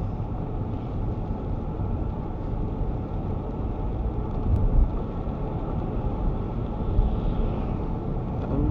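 Car driving along, heard from inside the cabin: a steady low rumble of engine and road noise, a little louder briefly about halfway through and again near the end.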